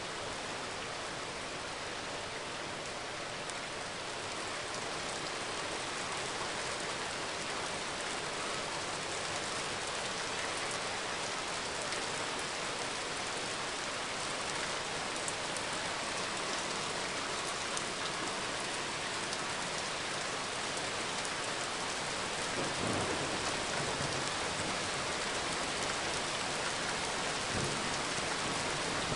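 Steady rain falling on a parking lot, a dense even hiss. A low rumble joins in past the two-thirds mark.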